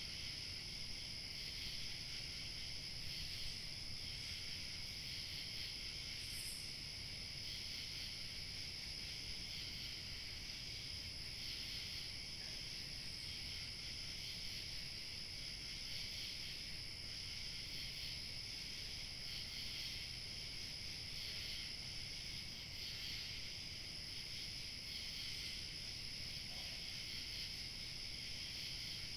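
A steady chorus of crickets chirping, several overlapping pitches with no break, over a faint low rush of light wind.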